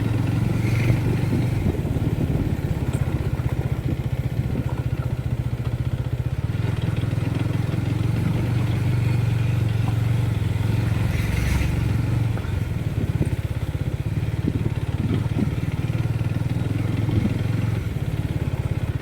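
Motorcycle engine running steadily while riding, its low drone holding nearly even pitch with small shifts.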